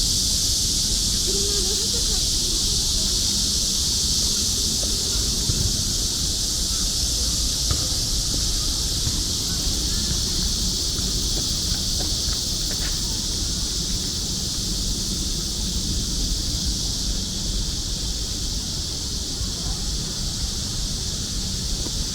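Chorus of cicadas singing: a steady, unbroken high buzz over a low background rumble.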